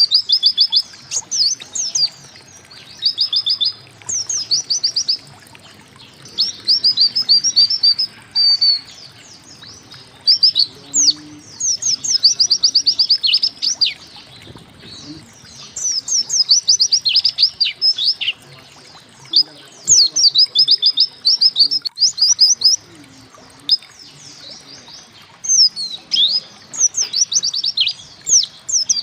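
A white-eye (pleci) singing: bursts of rapid, thin, high chirps, each note sweeping downward, delivered in phrases of one to two seconds separated by short pauses, repeating throughout.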